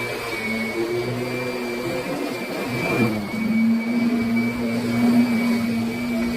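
Kirby Sentria upright vacuum cleaner running steadily, its motor giving a steady hum with a thin high whine; about three seconds in the pitch dips briefly as the load on the motor changes, then recovers.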